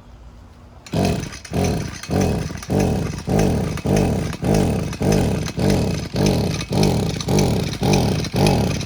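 Flooded two-stroke string trimmer engine cranked over and over by its pull-start rope, with the throttle held open and the choke off. From about a second in come quick, even pulls, roughly one every 0.6 s, each a whirring spin that drops in pitch as it slows, without the engine catching.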